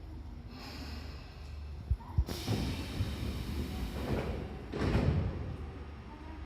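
Noise of a train at a station platform over a steady low hum: two sharp knocks about two seconds in, then a rushing hiss, and a louder surge near the five-second mark.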